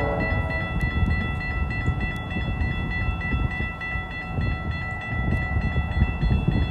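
GO Transit commuter train passing a level crossing: a steady low rumble of the cars going by, with several steady high-pitched tones held over it.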